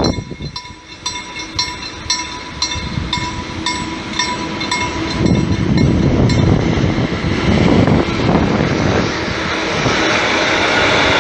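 A DB Schenker 3E/100 electric locomotive with a container freight train approaching and passing at speed. A level-crossing warning bell rings at about three strokes a second at first, then is drowned out as the locomotive's rumble builds about five seconds in and the container wagons pass with a steady rushing and clatter.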